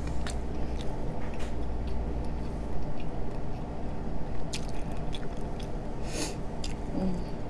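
Close-miked eating of buttered king crab meat: chewing with scattered wet mouth clicks and smacks. A steady low hum runs underneath.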